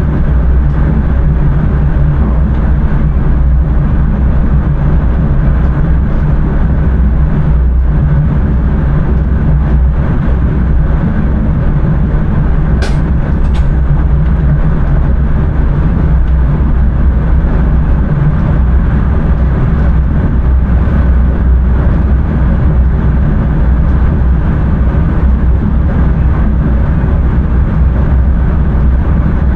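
Passenger train running at speed, heard from inside the driver's cab: a steady, loud rumble of wheels and running gear. Two short clicks come about 13 seconds in.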